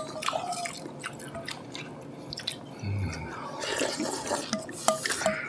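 Wet chewing and lip-smacking of someone eating soft acorn jelly (dotorimuk) salad, a run of short, sticky clicks and smacks.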